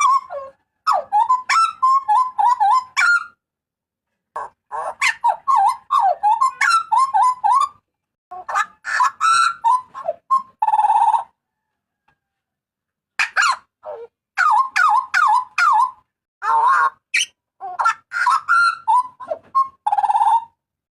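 Hooded butcherbird calling loudly in repeated bursts of rapid, jerky whistled notes with sharp upward flicks, broken by short pauses, with a few harsh buzzy notes among them.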